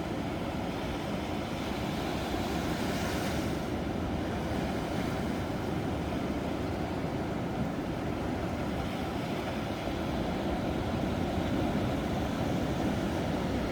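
Ocean waves breaking on a shore, a steady deep wash of surf with one wave hissing a little brighter about three seconds in.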